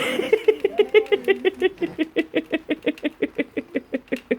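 Great Dane whining and moaning, complaining at being made to go out in the rain. It opens with a wavering drawn-out whine, then breaks into a fast stuttering run of short whimpers, about eight a second.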